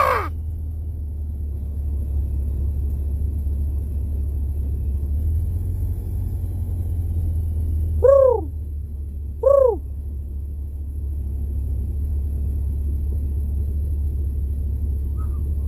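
A bird gives two calls about a second and a half apart, each rising then falling in pitch, over a steady low rumble.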